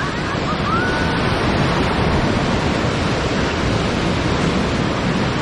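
Whitewater river rapids rushing steadily and loudly around a raft, with wind buffeting the microphone.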